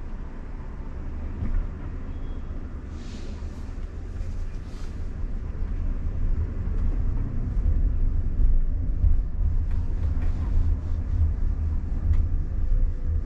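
Low road rumble inside the cabin of a moving Waymo self-driving car, growing louder about six seconds in.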